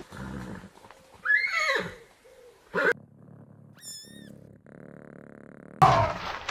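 A quick series of separate animal calls: a loud call falling in pitch about a second in, a short cry near the middle, a brief high chirping, then a louder call starting near the end.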